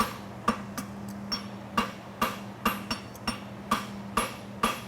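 Farrier's hammer striking steel horseshoe stock on an anvil, about two ringing blows a second with a few lighter taps between, shaping the toe of a hind bevel shoe.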